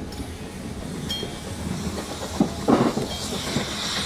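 A steam train's carriages rolling along the track, heard from on board: a steady rumble with the clatter of the wheels, one louder knock a little under three seconds in, and a hiss rising near the end.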